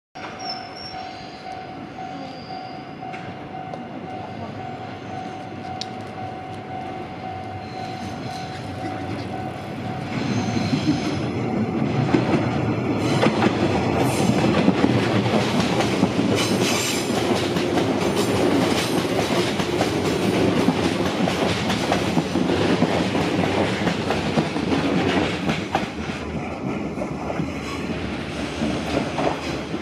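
JR East 185 series electric train running along the track. Its running noise grows louder about ten seconds in and eases off near the end, with wheels clicking over the rail joints as it comes by.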